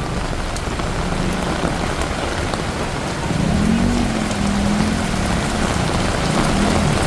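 Heavy rain pouring down, a steady dense hiss of rain hitting the ground and surfaces. From about three seconds in, a low wavering hum joins it.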